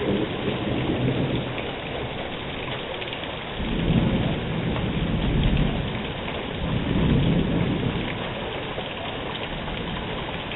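Heavy thunderstorm rain falling steadily, with thunder rumbling in two rolling swells, about four seconds in and again around seven seconds.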